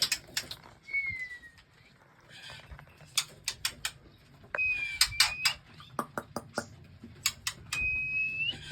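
Caged songbirds calling: a run of sharp, irregular clicking chips with three clear whistled notes, one falling and two held notes that turn up at the end.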